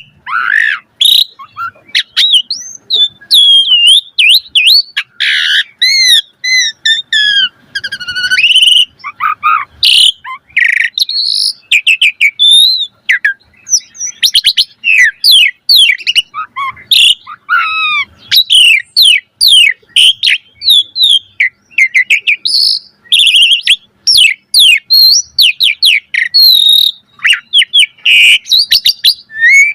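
Asian pied starling (jalak suren) in full song: a long, rapid, varied run of whistles, chatters and up-and-down gliding notes, phrase after phrase with barely a pause.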